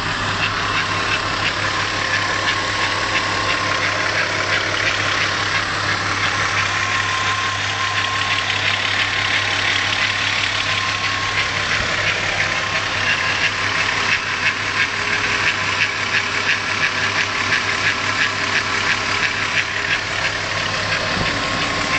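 Volkswagen VR6 engine idling steadily, with a fast, even ticking over the hum of the running: the engine noise the owner is recording as a concern.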